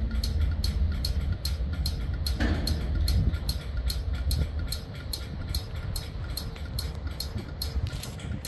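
Norfolk Southern manifest freight train of covered hopper cars rolling past with a low rumble, over a steady ticking of about three to four clicks a second.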